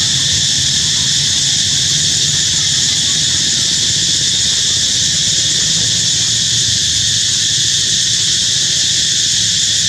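Dense insect chorus: a loud, steady high-pitched drone with no break, over a low rumble.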